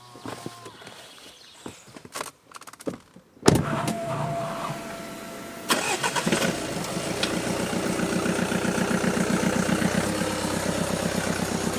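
A few quiet clicks and knocks, then a car engine starts suddenly about three and a half seconds in and settles into a steady idle.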